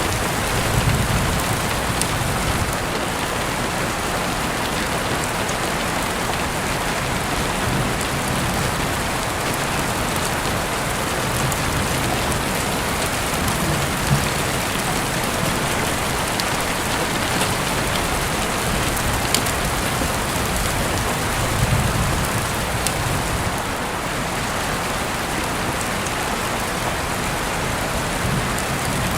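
Heavy rain falling steadily, heard through an open window: a dense, even hiss with scattered sharp drop ticks and a few brief low swells.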